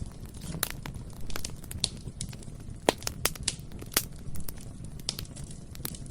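Bonfire burning: irregular crackles and sharp pops over a low steady rumble of the flames, the loudest pops about three and four seconds in.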